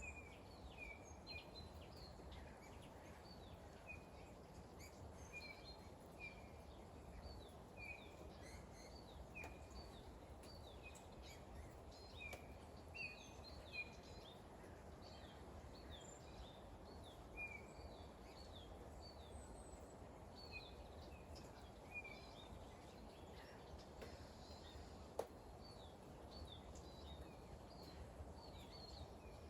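Faint small-bird chirping: many short, high, falling notes repeated again and again over a soft, steady low background noise, with one sharp tick near the end.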